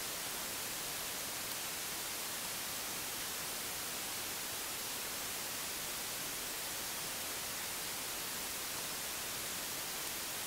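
Steady, even hiss with no other sound: the recording's background noise floor.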